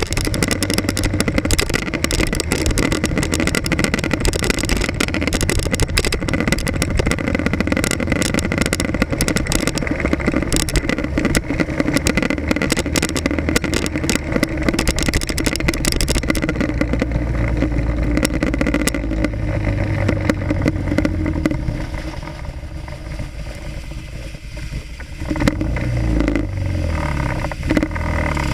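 Motorcycle engine running through traffic, picked up by an action camera mounted on the bike, with rattling and wind crackle on the microphone. It eases off for a few seconds late on, then picks up speed again near the end.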